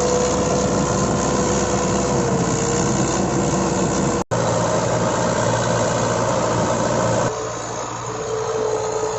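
Mahindra 575 DI tractor's diesel engine running steadily. The sound breaks off for an instant about four seconds in and continues a little quieter from about seven seconds in.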